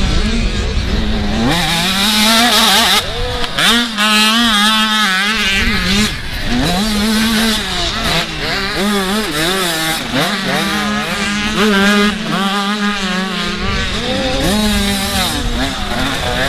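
Several motocross dirt bikes racing, their engines revving up and down in quick overlapping rises and falls as the riders work the throttles.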